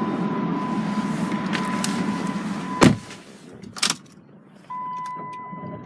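Jeep Compass electric driver's seat motor running for nearly three seconds, then a sharp knock as it stops. A second click follows, and later a steady high electronic beep sets in and holds.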